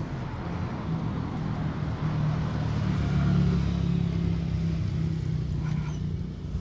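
City bus engine running at low pitch, growing louder to a peak about three seconds in and then easing off, as the bus moves past or pulls away from the stop.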